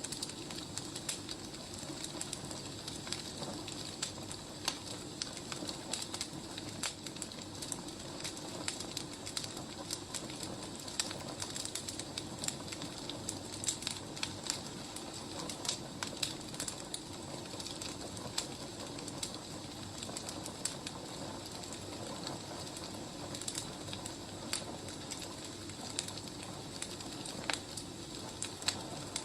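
Wood fire crackling: irregular sharp pops and snaps of burning logs over a steady soft hiss.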